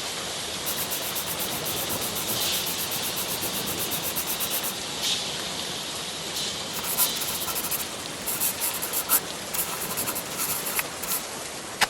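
Steady rain: an even, dense hiss of falling rain with scattered sharp ticks of drops, the ticks more frequent in the second half.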